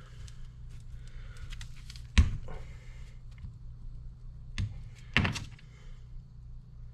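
A few sharp knocks and clunks of parts and hand tools being handled while new seals are fitted to a hydraulic cylinder part, the loudest about two seconds in, over a steady low hum.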